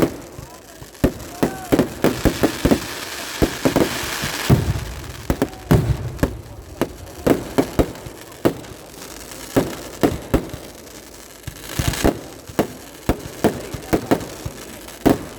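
A festival fireworks display: a rapid, irregular string of dozens of sharp bangs. A hissing crackle runs under the bangs from about two to four and a half seconds in.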